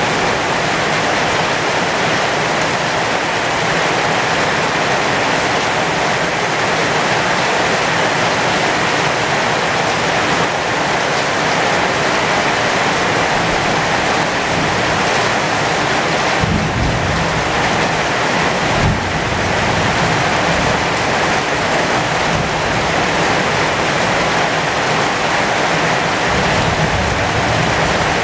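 Heavy rain falling steadily on the leaves of a flowering pomegranate tree, an even, unbroken hiss of drops. A low rumble comes in about two-thirds of the way through and again briefly near the end.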